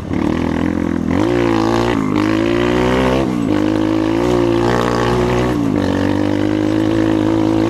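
Trail motorcycle's engine running hard under throttle, its pitch dropping and climbing again several times as the rider shifts up through the gears.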